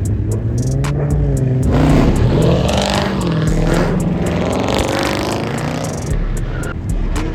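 Performance car engines running loud through their exhausts, revving so the pitch rises a little under two seconds in, then wavers.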